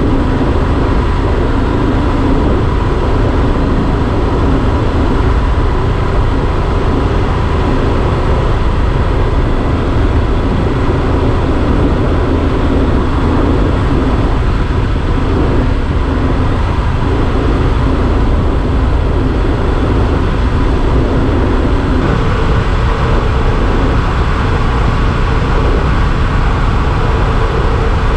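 Yamaha Super Ténéré XT1200 motorcycle's parallel-twin engine running at steady road speed under heavy wind noise. The engine note changes about three quarters of the way through.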